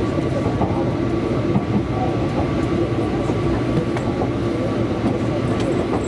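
Running noise of a Tobu Railway electric train heard from inside the car while it travels at speed: a steady rumble with a steady hum and a few faint clicks of the wheels over the rails.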